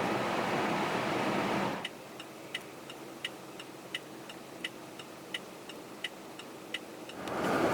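Steady road noise inside a car, which drops away after about two seconds to a quiet cabin where the turn-signal flasher ticks about three times a second, alternately louder and softer. The road noise returns near the end.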